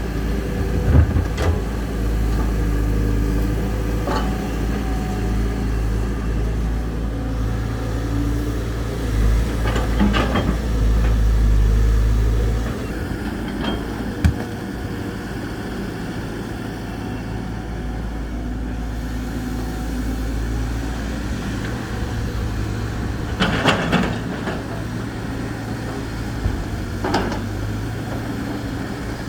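Diesel engines of hydraulic excavators running under load as they dig, with scattered clanks and knocks from the machines. The engine note drops to a lower level about twelve seconds in.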